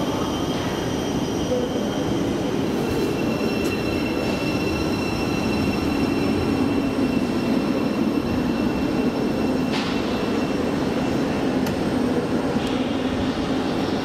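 Train moving through the station: a steady rumble with a faint high whine or squeal that comes in about three seconds in.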